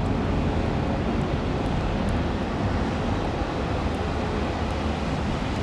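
Jet airliner engines at takeoff power, a steady low rumble.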